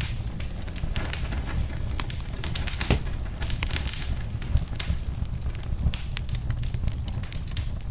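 Wood fire crackling in a fireplace: a dense run of irregular pops and snaps over a steady low rumble of the flames, with one sharper snap about three seconds in.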